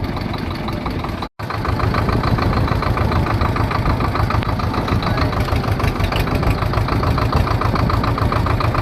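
Swaraj 724 tractor's diesel engine running with a steady, rapid knocking beat. The sound cuts out completely for a moment about a second in.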